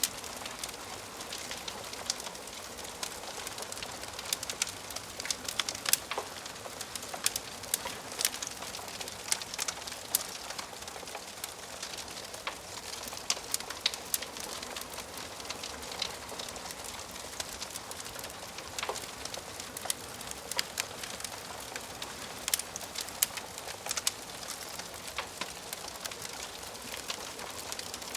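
Wood fire crackling in a fireplace: a steady hiss with frequent, irregular sharp pops and snaps of burning wood.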